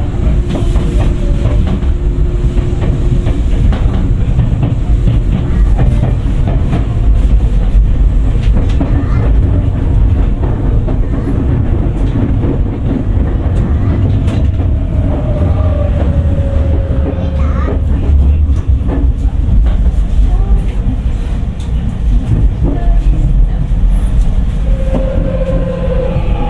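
Tokyu 9000 series train running, its Hitachi early GTO-VVVF inverter whining in tones that slide in pitch over a steady low rumble from the running gear, with wheel clicks over the rail joints.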